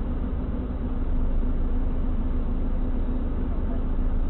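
Steady drone of a vehicle driving, engine and road noise heard from inside, with a deep rumble and a steady hum that do not change.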